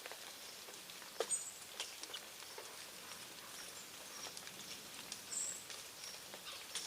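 Birds at a feeding spot: scattered light taps and ticks, with a few short, high chirps.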